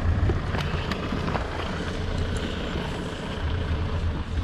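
Adventure motorcycle running, a steady low engine sound with rushing wind and road noise over it.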